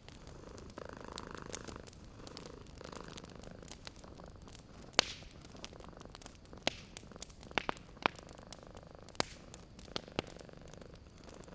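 Cat purring, with a wood fire crackling: scattered sharp pops, the loudest about five seconds in and several more over the following five seconds.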